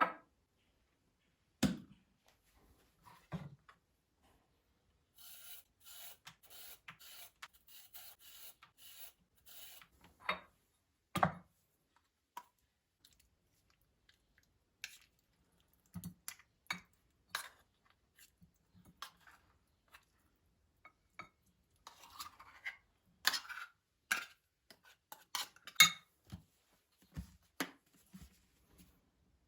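Kitchen handling sounds: dishes and utensils set down and knocked with sharp clicks and clunks. About five seconds in comes a run of quick, even scraping strokes.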